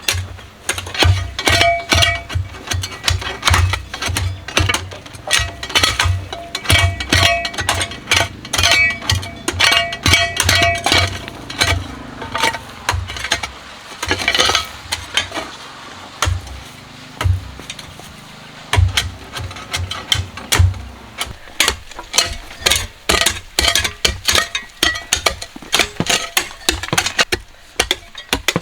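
Rapid, irregular metallic knocks and scrapes, several a second, some strikes leaving a short ringing tone. The clatter thins out for a few seconds in the middle, then picks up again.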